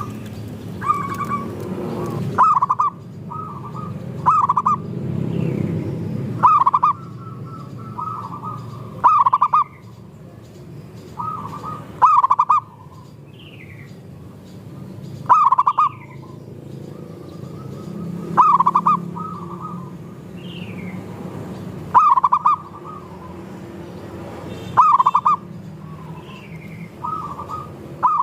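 Zebra doves (perkutut) cooing in a chorus. A loud, clipped coo phrase comes about every three seconds over softer overlapping coos, with faint high falling chirps from other birds.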